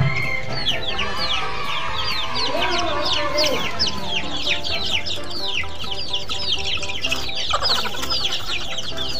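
A group of young chicks peeping continuously: a dense stream of short, high, falling peeps, several a second.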